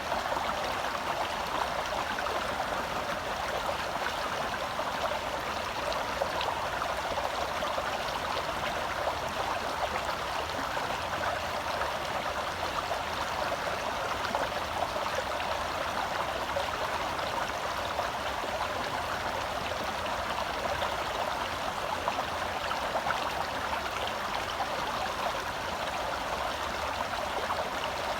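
Shallow forest stream flowing and burbling over rocks, a steady rush of water close by.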